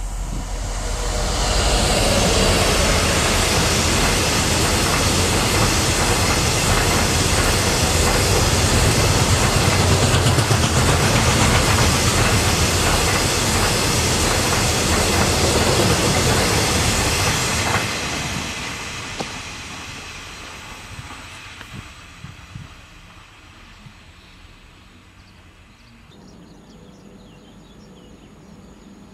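A freight train of hopper wagons passing close by, wheels running loud on the rails. The noise builds over the first two seconds, holds steady for about fifteen seconds, then fades away as the train moves off.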